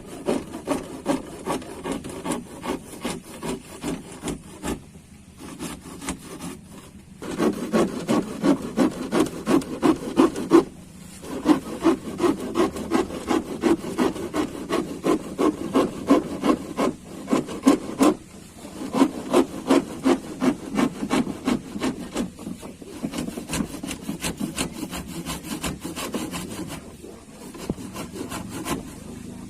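Hand saw cutting in steady back-and-forth strokes, about three a second, stopping briefly a few times before carrying on.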